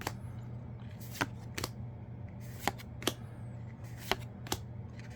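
Yu-Gi-Oh! trading cards being flicked through one at a time, about seven crisp card snaps, several in pairs, over a low steady hum.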